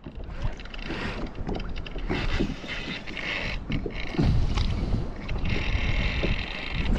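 Water sloshing and knocking against a kayak hull, with wind buffeting the microphone. There are uneven splashes and bumps while a fish is being played on the line.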